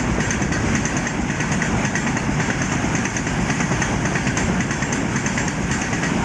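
Freight train running steadily on the rails, a constant engine rumble under a hissing, fast-fluttering rolling noise.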